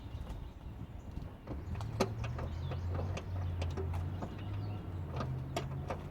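A low motor hum that shifts in pitch now and then, with scattered sharp metallic clicks over it.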